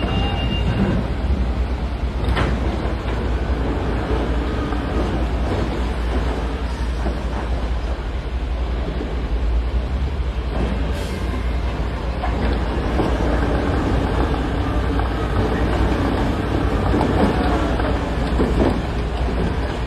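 Heavy diesel earthmoving machinery working: a steady, loud, deep engine rumble with clattering throughout and a sharp knock about two seconds in and another about eleven seconds in.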